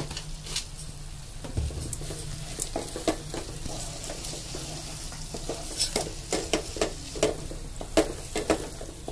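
Wooden spoon stirring and scraping an onion and spice masala frying in oil in an aluminium pot, with a steady sizzle. Irregular scrapes and knocks of the spoon against the pot come thicker from about two or three seconds in.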